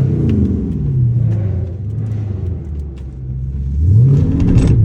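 A Mopar car's engine being revved. The pitch falls away as it drops back from a rev in the first second or so, then climbs sharply in a second, louder rev near the end.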